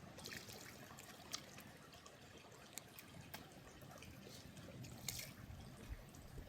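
Faint trickling water, with a few small scattered clicks.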